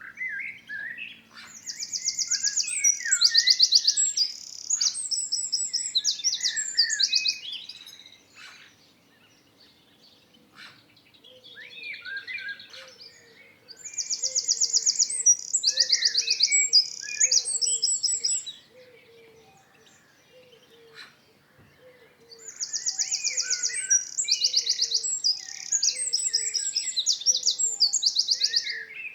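A songbird singing three long songs of rapid high trills and warbling phrases, with short pauses between them. A faint low note repeats steadily in the background from about a third of the way in.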